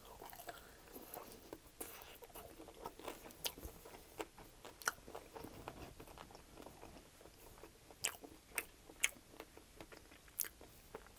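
A person chewing an extra-crispy air-fried chicken wing: faint, wet mouth sounds with scattered sharp crunches of the skin, a few louder ones about eight to nine seconds in.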